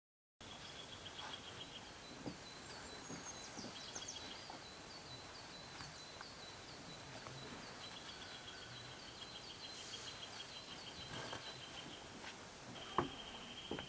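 Quiet outdoor nature ambience: a steady hiss under a series of short high-pitched chirps, a few per second, and fast high trills that come and go. A single sharp knock sounds near the end.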